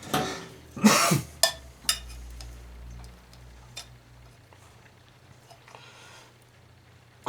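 Metal tools clinking and scraping against the small-engine carburetor while it is worked loose from its fuel line, with a cluster of knocks in the first two seconds and a few isolated clicks after that, then quieter.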